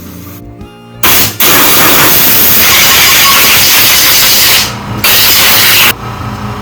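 Pressurised spray hissing in bursts as the dirty carburetor mounting area of a lawnmower engine is blasted clean: a short burst about a second in, a long one of about three seconds, then a shorter one near the end. Faint background music is heard before the spraying starts.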